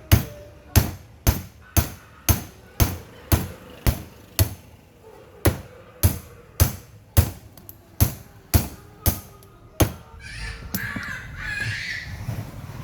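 Hammer blows on metal, about two a second and evenly paced, stopping about ten seconds in; a rougher, steadier noise follows.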